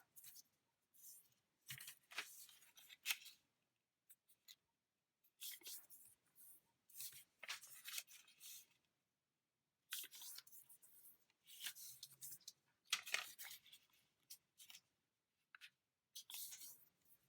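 Faint, intermittent rustling and crinkling of a sheet of origami paper being folded and creased, in short bursts of a second or less with soft clicks.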